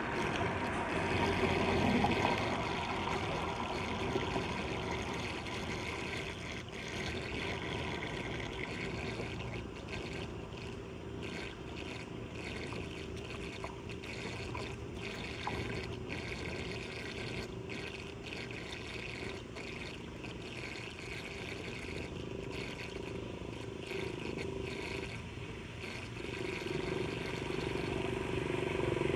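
Floodwater running steadily down into a street storm drain.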